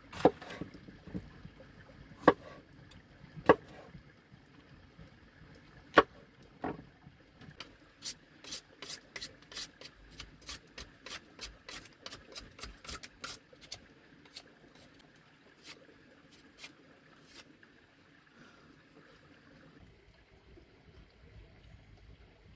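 Work on wood: a few sharp, separate knocks, then about five seconds of quick, light taps at roughly three a second, with rubbing and scraping between them.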